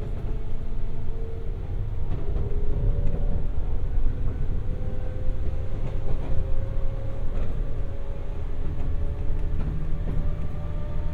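Inside a JR West 201 series electric train's motor car while running: a steady low rumble of the wheels and running gear, with a faint whine from the drive that slowly rises in pitch.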